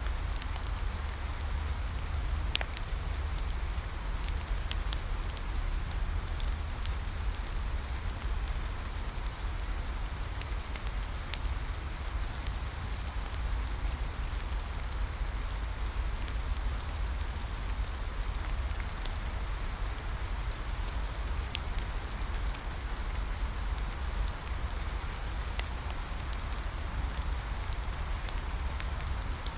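Steady rain falling on a surface, mixed with the crackle of a bonfire: scattered sharp pops and snaps over a constant rain hiss and a low rumble.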